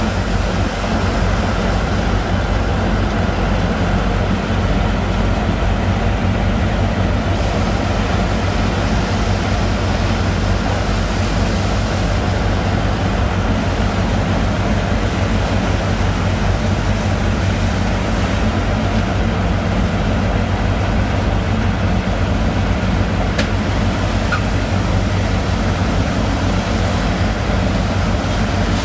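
A sand boat's pump engine running steadily under load with a loud, even drone that does not change, while the boat pumps sand.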